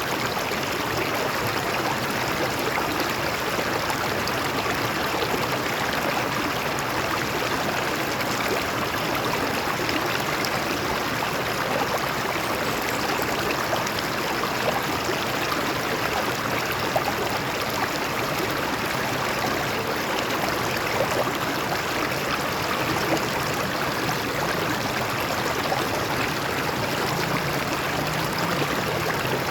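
Stream water flowing over rocks: a steady, unbroken rush with a fine trickling texture.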